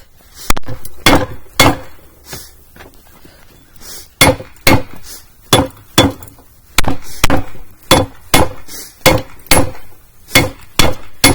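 Hand hammer striking hot steel on an anvil with a ringing clank: three blows, a short pause, then a steady run of about two blows a second. These are forge-welding blows setting a high-carbon edge into a railroad-spike knife blank.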